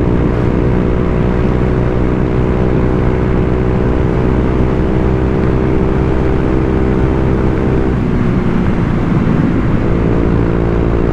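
Honda Vario 125 scooter's single-cylinder four-stroke engine running through an aftermarket racing-style stock-shape exhaust, ridden with the throttle opened a little. The note stays steady and fairly deep, wavering briefly about eight seconds in before settling again.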